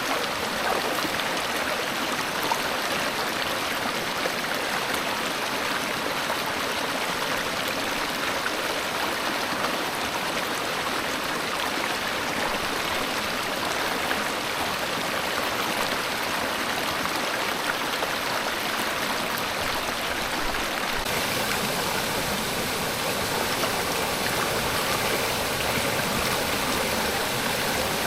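Stream water flowing steadily. About twenty seconds in, the flow takes on more low rumble.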